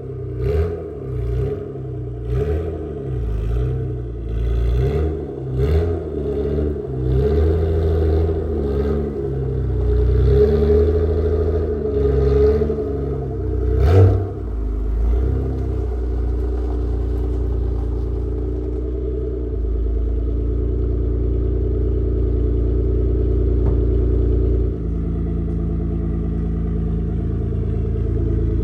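Car engine under way, its pitch rising and falling again and again for the first half, with some knocks and clatter, then settling into a steady drone at constant speed.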